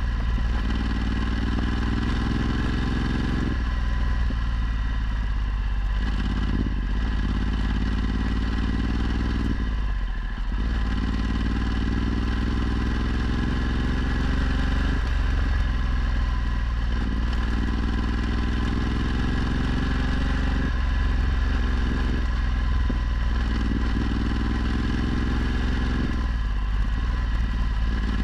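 Ducati Multistrada 1260's V-twin engine through a Termignoni exhaust, ridden under way. The engine note climbs in pitch and drops again about six times as the rider accelerates and changes gear or rolls off the throttle.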